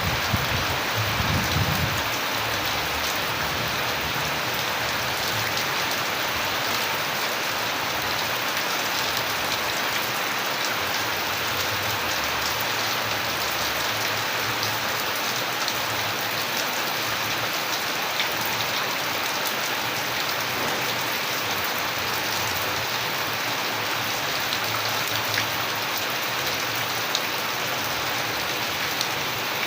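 Steady rain falling on a surface, a dense even hiss with individual drops ticking through it. A brief low rumble comes about a second in.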